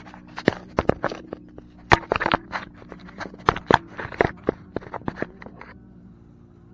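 Close, irregular clicks, rustles and scrapes of hands handling things at the microphone, stopping a little under six seconds in, over a faint steady low hum.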